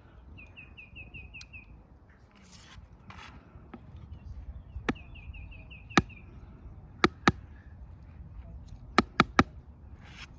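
Colouring on paper outdoors: brief scratchy strokes, and sharp clicks that are the loudest sounds, one, then two, then three in quick succession. A bird twice calls a quick run of about seven high notes.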